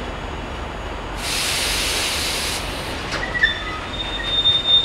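Slow-moving engineering train of open box wagons rumbling along the track, with a loud burst of air hiss lasting about a second and a half starting about a second in, then high-pitched wheel squeal starting about three seconds in.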